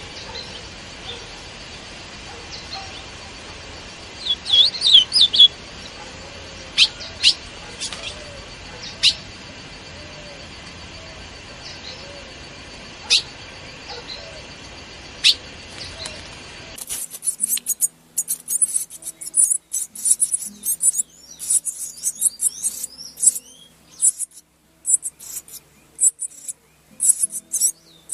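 Small birds chirping: scattered sharp chirps over a steady hiss, then, after an abrupt cut about two-thirds of the way in, a dense run of rapid, very high-pitched cheeps.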